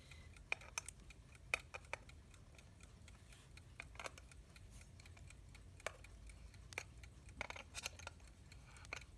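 Faint, scattered small metallic clicks at uneven intervals as nuts are threaded and tightened onto a vintage US Time Waterbury alarm clock's movement, with a few quick clicks close together near the end.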